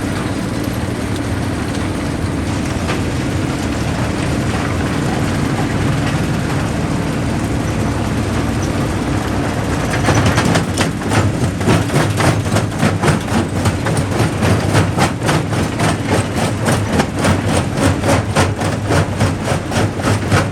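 A jaw crusher running with a steady low mechanical hum. About halfway through, a regular pulsing sets in, roughly two to three beats a second, as the jaw works on rock.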